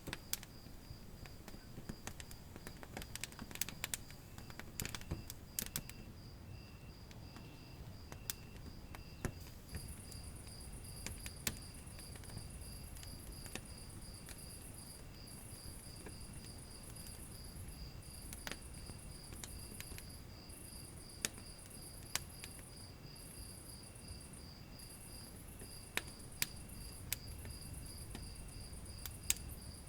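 Wood fire crackling, with scattered sharp pops over a low steady rumble. Insects chirp steadily in evenly pulsed beats, and a higher buzzing trill in on-and-off stretches joins about a third of the way in.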